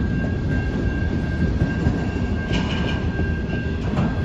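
Freight train of multilevel autorack cars rolling slowly past: a steady low rumble of steel wheels on rail, with a thin steady high squeal and a couple of sharp clicks, about two and a half seconds in and near the end.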